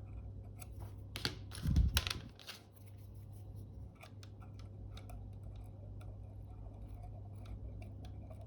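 A few sharp clicks and a soft thump from handling tools and parts, then faint, rapid scratching and ticking of a small tool working on a Fuji GA645 camera's shutter flex cable to clean the sticky leaked glue off it.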